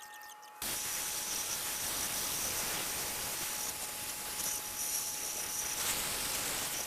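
A steady spraying hiss from a nozzle that cuts in abruptly about half a second in; faint insect chirps come just before it.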